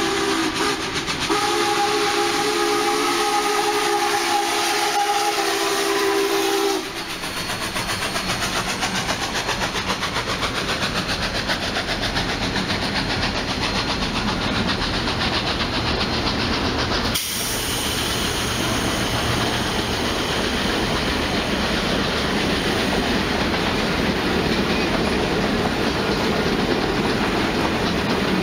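A train horn sounds a sustained chord, with one short break, for about the first quarter. It then gives way to the steady rolling noise and clickety-clack of a passing train.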